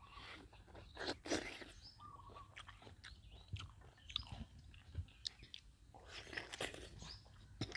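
A person biting and chewing crunchy food close to the microphone, with loud crunches about a second in and again around six seconds in.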